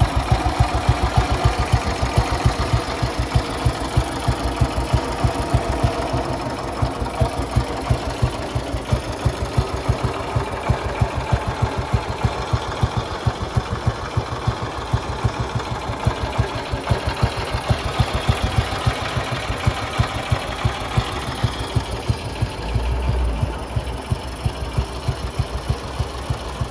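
1957 Ariel NH350's single-cylinder four-stroke engine idling steadily, an even pulse of about five beats a second.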